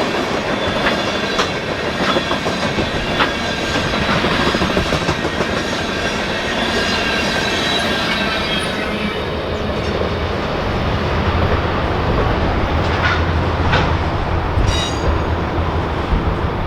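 Freight train cars rolling past at close range, wheels clicking over rail joints with faint high-pitched wheel ringing. A heavier low rumble builds in the second half.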